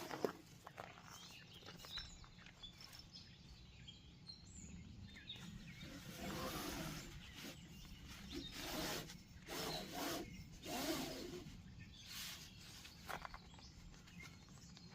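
Quiet outdoor ambience with faint bird chirps and a few short rustling, scuffing noises in the second half.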